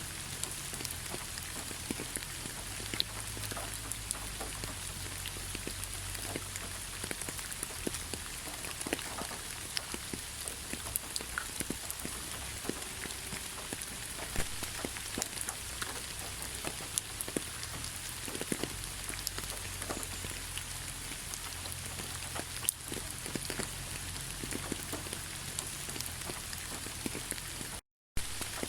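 Heavy rain falling steadily: a constant hiss with many individual drops ticking through it. The sound cuts out completely for a moment near the end.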